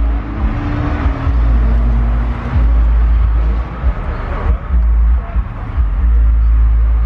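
Car engines running and passing close by, with a heavy low rumble that swells and dips.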